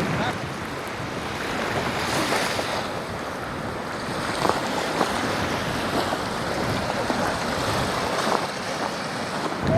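Waves of Lake Michigan breaking on the shore, with strong wind gusting against the microphone.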